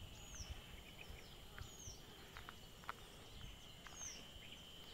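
Faint outdoor quiet with a bird giving three short, high, falling chirps over a steady high-pitched hum.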